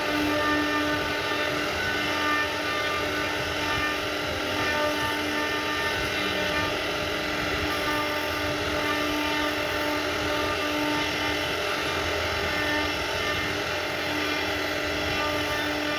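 CNC router spindle running steadily while carving wood: a constant whine over the noise of the cutting.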